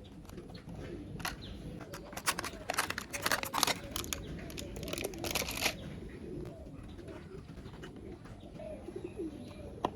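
Plastic toy vehicle parts clicking and rattling as they are handled and fitted together, with a dense clatter of clicks through the middle.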